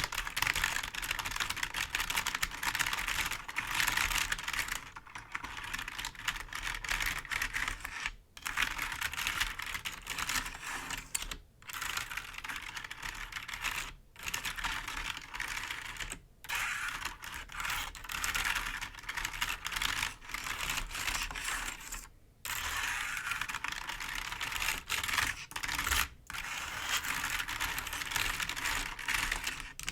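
Fingers tapping and scratching on a computer keyboard, a dense run of clicky key sounds broken by several short pauses.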